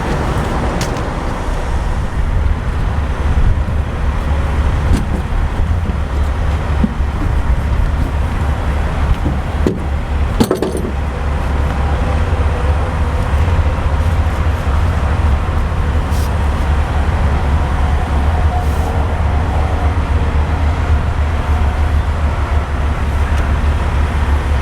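Steady low rumble of road vehicle engines, with scattered light clicks and a louder clatter about ten seconds in.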